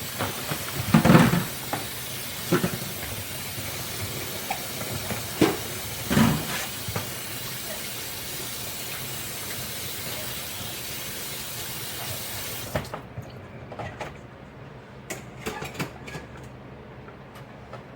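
Water running from a kitchen tap into a sink while dishes knock and clatter, with a few louder clunks in the first several seconds. The tap is turned off about two-thirds of the way through, and a few lighter clinks of dishes follow.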